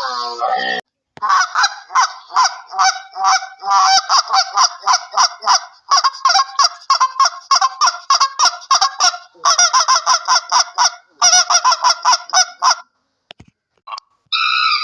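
Geese honking in a rapid run of short repeated calls, several a second, that stops about two seconds before the end.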